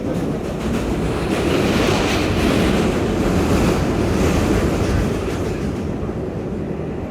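R142A subway car running through a tunnel, with a steady roar of wheels on rail. It grows louder and hissier about a second in and eases off after about five seconds.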